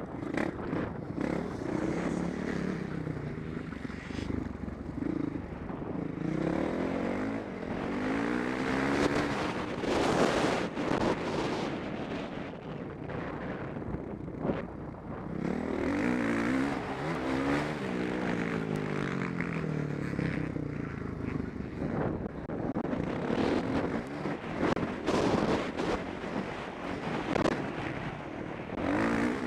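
Motocross bike engine revving hard and easing off again and again, its pitch climbing and falling through the gears, with wind buffeting the helmet-mounted microphone.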